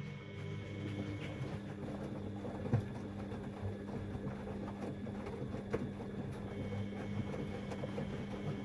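Siemens Extraklasse XLs 140 A washing machine running mid-wash: a steady motor hum over a rumble, with a couple of short knocks.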